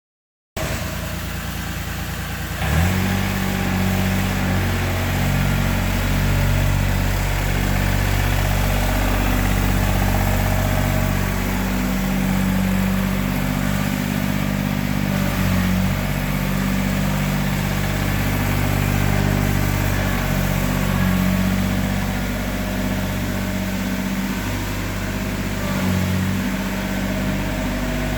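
John Deere 955's three-cylinder Yanmar diesel engine cranking for about two seconds, catching, then running steadily at idle.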